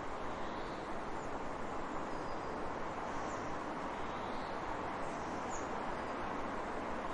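Steady rushing of flowing water, with faint, brief high bird chirps every second or so.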